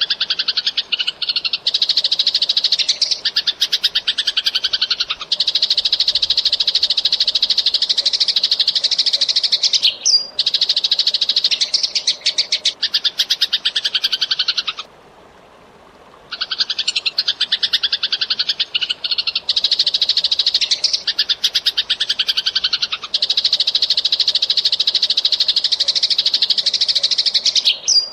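Eurasian tree sparrow chirping very rapidly and almost without pause, long runs of fast, tightly packed high chirps. The chirping stops for about a second and a half around the middle, then resumes.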